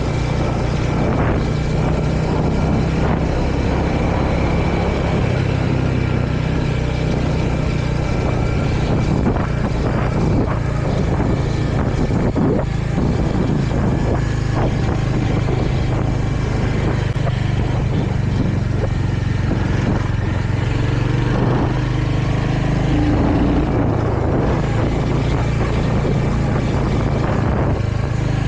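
Royal Enfield Hunter 350's single-cylinder engine running steadily while riding, its note shifting a little about five seconds in and again near the end, under a constant rush of wind and road noise.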